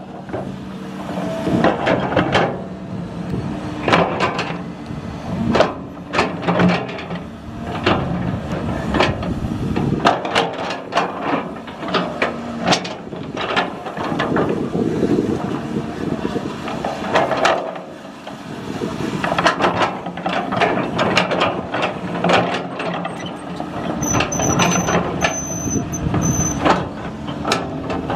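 Heavy construction machinery at work: a diesel engine running under many irregular metallic clanks, knocks and squeals. A faint, broken high beeping sounds a few seconds before the end.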